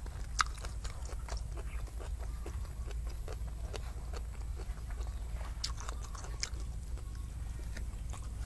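Close-miked chewing and mouth sounds of a person eating grilled fish by hand: many scattered small clicks, smacks and crunches at irregular intervals over a steady low rumble.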